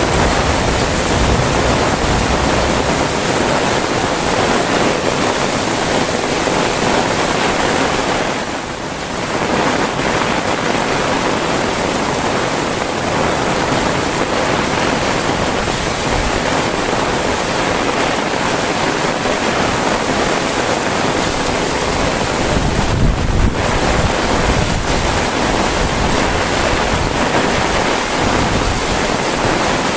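Heavy rain falling steadily, a dense even hiss, with wind rumbling on the microphone now and then; the rain eases briefly about nine seconds in.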